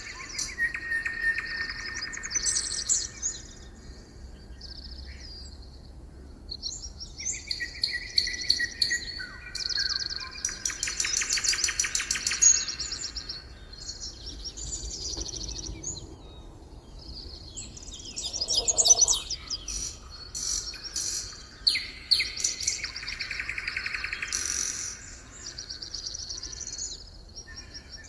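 Several songbirds singing and calling together, overlapping high chirps and rapid trills, with a lower, shorter call a little past the middle.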